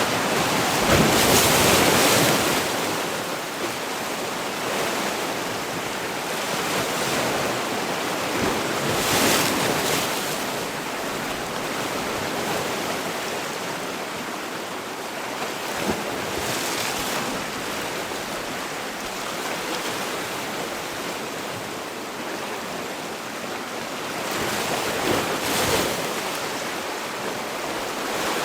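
Sea waves breaking and washing on the shore: a continuous rushing surf with louder swells cresting about a second in, near nine seconds, around sixteen seconds and again about twenty-five seconds in.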